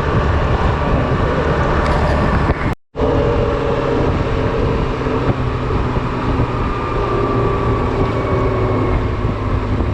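Honda Silver Wing scooter riding along: a steady engine hum mixed with wind and road noise. The sound cuts out completely for a split second about three seconds in.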